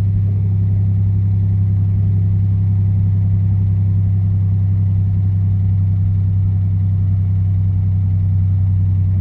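1984 Oldsmobile 4.3-litre V6 diesel engine running at a steady, unchanging pitch. The exhaust is a bit loud because the system is worn out and needs a new straight pipe and muffler.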